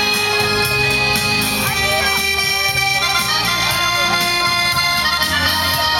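Ballroom dance music led by an accordion, with long held chords over a repeating bass line.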